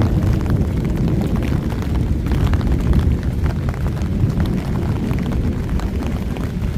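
Long rolling thunder from a close storm: a deep, steady rumble with crackling, slowly fading.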